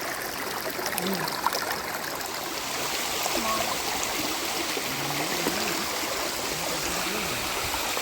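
Stream water rushing steadily, with faint voices now and then beneath it.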